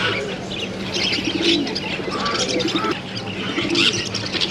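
Many caged birds calling together: doves cooing over and over beneath a dense mix of high chirps from smaller birds, with a steady low hum underneath.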